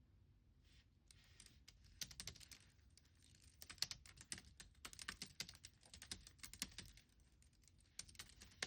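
Computer keyboard typing: a quick run of keystrokes from about a second in until about seven seconds, then a few more keystrokes near the end.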